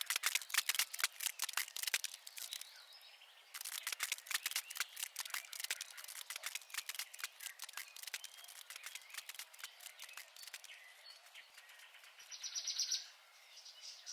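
Small birds chirping in rapid, sharp chirps, with a brief trilled call about twelve seconds in.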